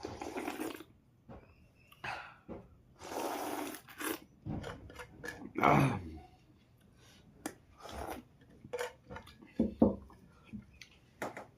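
Eating sounds: chewing, with short noisy bursts and scattered sharp clicks, and one louder brief sound near the middle.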